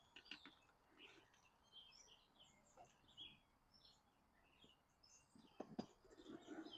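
Faint birds chirping, many short high calls scattered throughout. A couple of sharp clicks or knocks come about five and a half seconds in.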